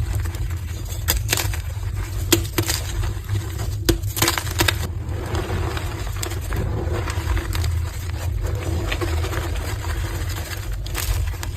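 Soft, fluffy blocks of gym chalk being crushed: irregular crunches and crackles, some sharper and louder than others, over a steady low hum.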